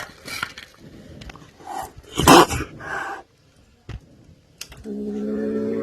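Angry kitten hissing in several short bursts, the loudest just over two seconds in, then a low steady growl starting near the end.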